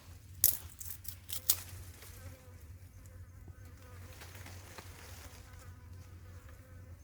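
Steady, faint buzzing of a flying insect close by. Two sharp clicks come about half a second and a second and a half in.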